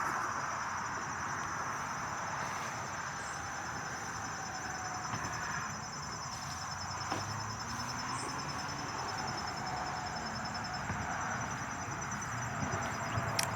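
Insects trilling steadily in two high-pitched, finely pulsing trills over a soft outdoor background hiss; the higher trill drops out about three-quarters of the way through.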